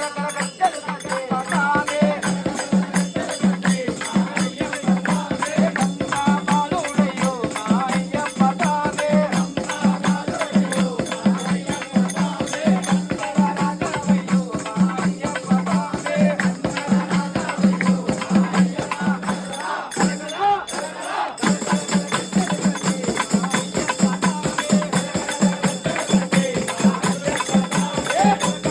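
Live devotional singing with a steady rhythmic beat and jingling rattle-type percussion. The music dips briefly about twenty seconds in, then carries on.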